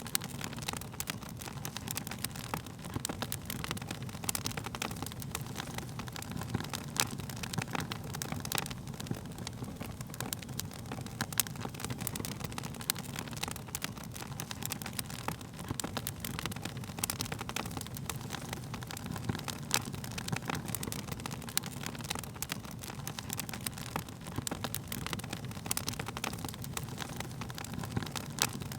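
Wood fire burning, with frequent sharp crackles and pops over a steady low rumble of flames.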